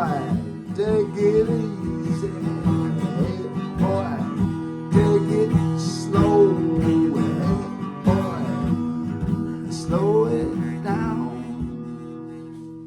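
Acoustic guitar playing the outro of a country-style song, the strummed chords fading out near the end.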